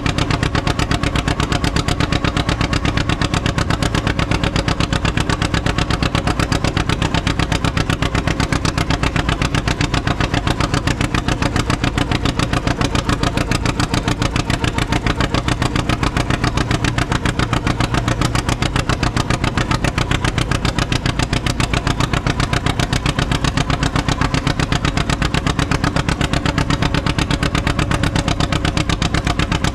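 Antique farm tractor engine running steadily at a constant speed, its exhaust giving a rapid, even firing beat.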